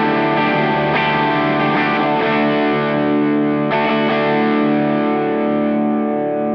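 Electric guitar chords played through an Olinthus Cicada overdrive pedal, a TS808 Tube Screamer-style circuit, set to medium drive with the tone turned fully down. Chords are struck twice, at the start and again a little past halfway, and left to ring, fading near the end.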